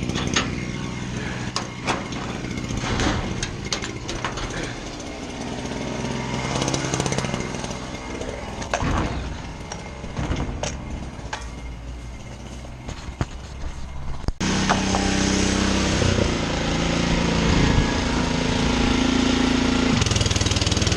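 Small petrol lawn-care equipment engines running, uneven and noisy with many clicks at first. About two-thirds of the way through the sound cuts abruptly to a steadier, louder engine drone.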